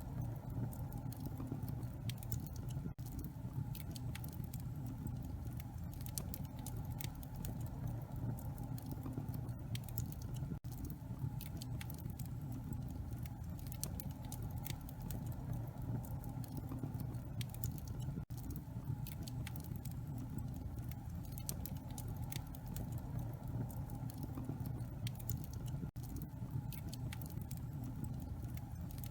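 Wood fire in a fireplace crackling steadily: many small sharp pops and snaps over a low steady rumble of the flames, with a very brief gap about every eight seconds.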